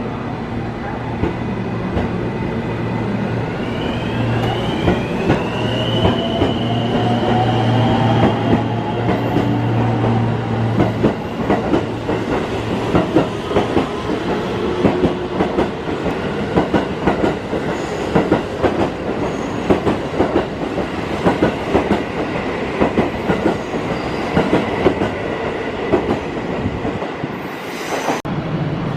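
JR conventional-line train running through Kyoto Station: a motor whine rises in pitch early on as the train gathers speed, then the wheels clack rapidly over the rail joints.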